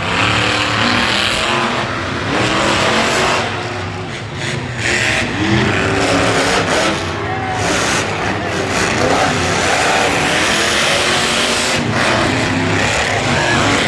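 Monster truck engine running loudly and revving, its pitch rising and falling over a dense wash of noise.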